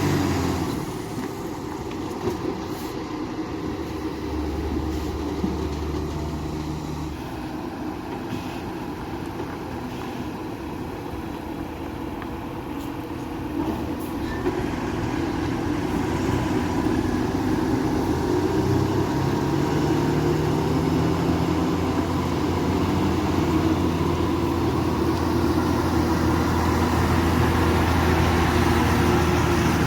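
Heavy truck engine running low and steady, growing louder about halfway through and staying loud to the end.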